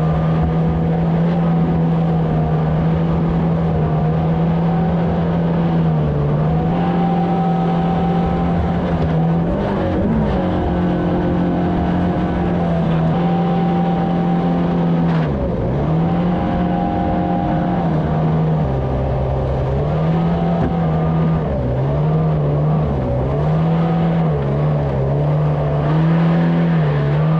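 Jet boat engine running steadily at speed, its pitch dipping and coming back up briefly about ten and fifteen seconds in, then wavering up and down repeatedly near the end.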